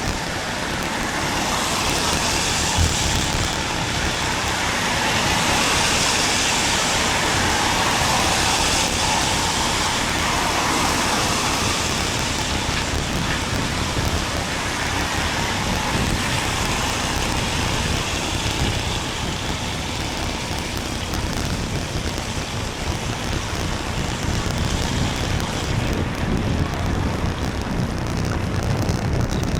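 Road traffic on a wet road: car tyres hissing through the wet surface, with two louder passes swelling up about two seconds in and again around six to nine seconds, over a steady low rumble.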